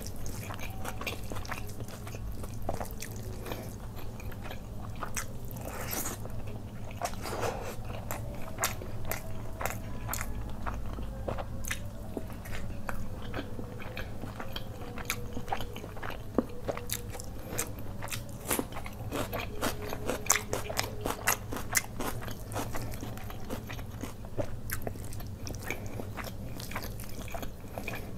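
Close-up eating sounds: a person chewing mouthfuls of butter chicken and fried rice eaten by hand, with many sharp wet clicks of the mouth at an uneven pace, busiest past the middle, and fingers squishing rice into the gravy.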